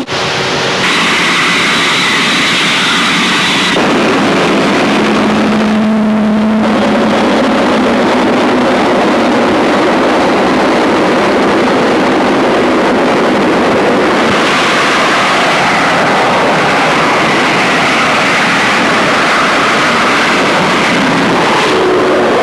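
Jet aircraft noise: a loud, steady roar that changes abruptly several times as one recording gives way to the next, with a gliding pitch near the end like a jet passing by.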